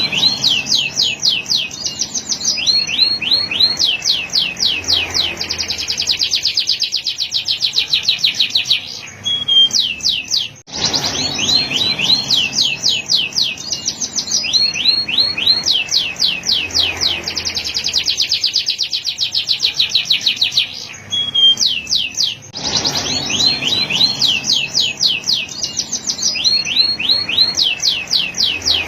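Male canary singing: long fast trills and rolls of rapid repeated notes, high-pitched, with short pauses between phrases. The same song passage repeats almost identically about every twelve seconds, as if looped.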